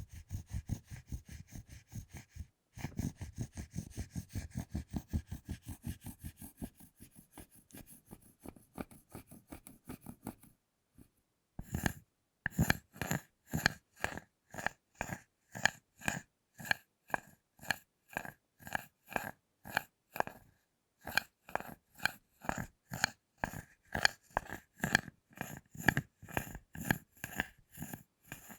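Close-miked ASMR sounds of chocolate being handled: a run of quick soft strokes about four a second, then after a short pause crisp, even taps about two a second.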